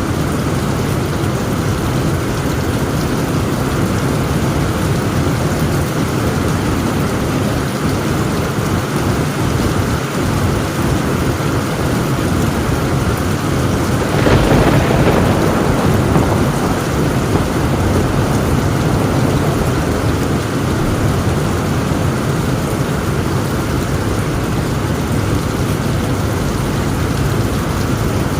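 Heavy rain falling steadily on a tin roof, with a louder rumble of thunder swelling for a few seconds about halfway through.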